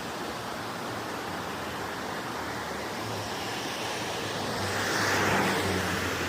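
Steady rush of a mountain stream. A low hum joins it from about halfway through, and the whole sound swells about five seconds in.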